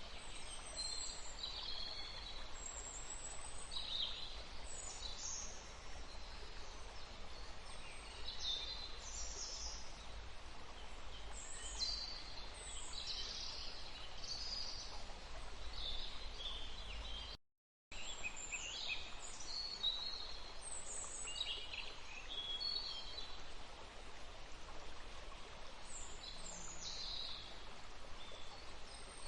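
Many songbirds singing in a forest, short chirps and trills coming one after another over the steady rush of a stream. The sound cuts out completely for a moment about two-thirds of the way through.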